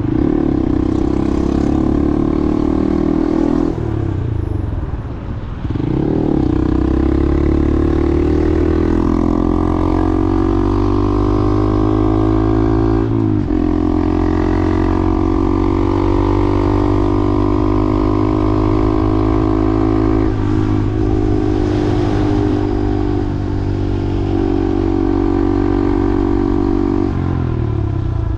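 Motor vehicle's engine running while driving, its pitch slowly rising and dropping back several times as the speed changes.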